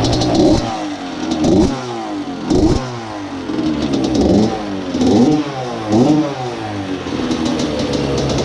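Small motorbike engine revved in repeated blips, about six rises in pitch each falling away again roughly a second apart, after a steady stretch at the start.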